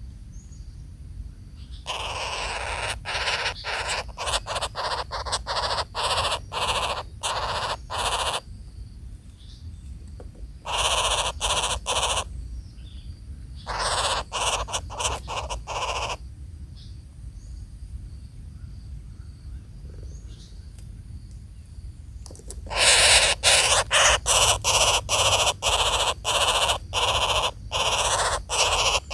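Harsh, rasping bird calls in four long bouts, each made of rapid short pulses, with faint high chirps in the pauses between them.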